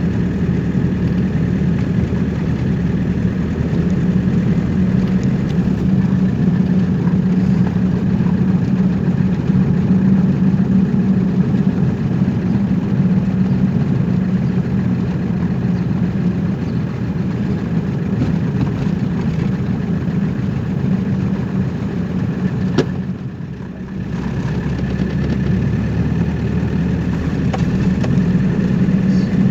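Car engine and road noise running steadily, with a hum strongest in the low range; the sound drops briefly for about a second roughly three-quarters of the way through.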